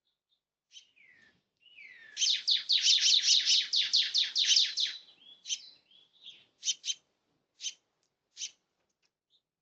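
A bird calling: a fast run of about a dozen sharp, high chirps lasting close to three seconds, then a few scattered single chirps.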